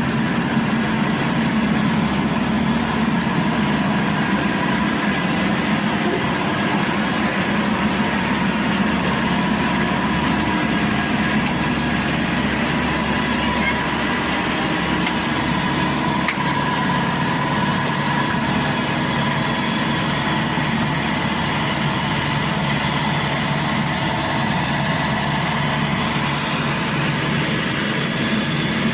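Engine of a Maxxi Bimo Evo Xtreme combine harvester running steadily at an even pitch, with no revving or breaks.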